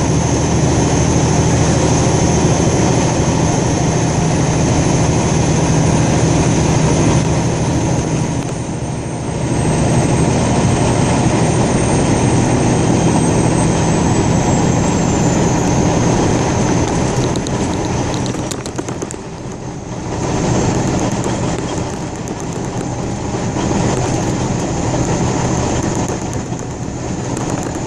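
Steady engine and road noise heard inside a moving vehicle, with the level dipping briefly twice, about nine and nineteen seconds in.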